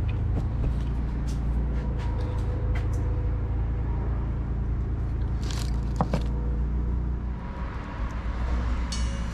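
A steady low rumble with faint hum tones, broken by scattered sharp clicks and clinks of metal fittings and hand tools being handled, and a quick run of small ticks near the end.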